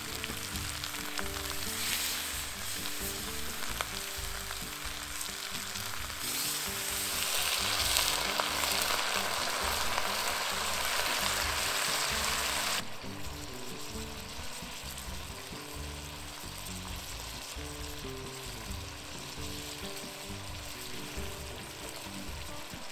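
Food frying and sizzling in a hot pot over an open fire. The sizzle grows louder about a quarter of the way in, then drops suddenly a little past halfway.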